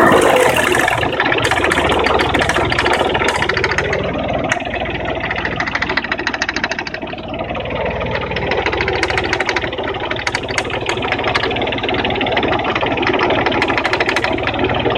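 Engine idling just after a rev dies away, with a fast, even knocking running through it: the strange knock whose cause the owner cannot identify.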